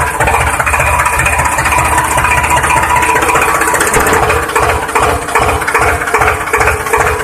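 Tractor engine sound running with an even, pulsing chug.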